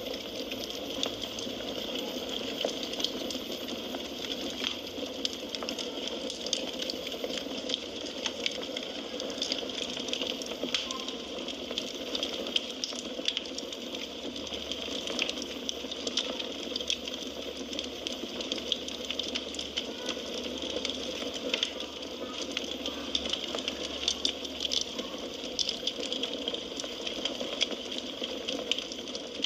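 Burning firewood crackling: frequent small sharp pops and snaps over a steady hiss.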